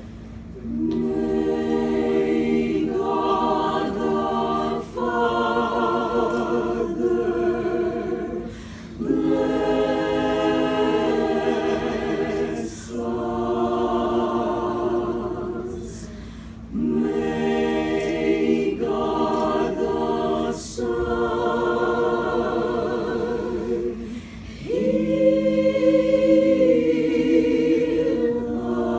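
A choir singing, several voices together in held phrases a few seconds long with short breaks between them.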